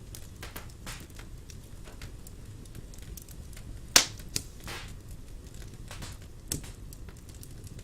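Wood fire in a fireplace crackling and popping over a low steady rumble, with one loud pop about four seconds in and smaller pops after it.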